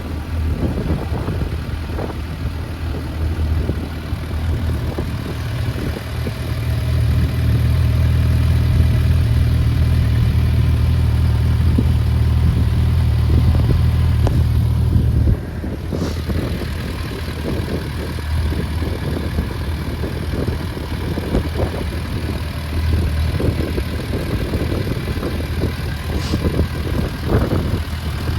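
Suzuki GSF650S Bandit's inline-four engine idling steadily through a Black Widow aftermarket exhaust with the dB killer fitted. The sound gets louder about a quarter of the way in, then drops back suddenly about halfway through.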